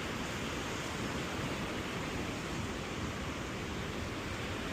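Steady rushing noise from wind buffeting a microphone on a moving bicycle, mixed with the wash of ocean surf.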